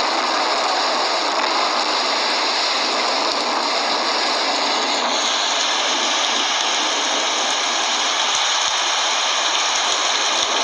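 Heavy rain falling steadily, a dense even hiss. Its tone turns slightly brighter about five seconds in.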